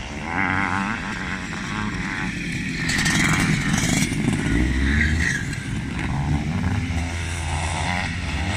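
Classic motocross motorcycles racing, several engines revving and changing pitch over one another, getting louder as the bikes come closer.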